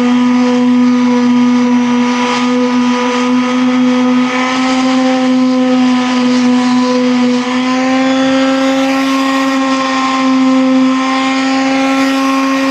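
A motor running steadily with a loud, even hum, its pitch stepping up slightly about seven and a half seconds in.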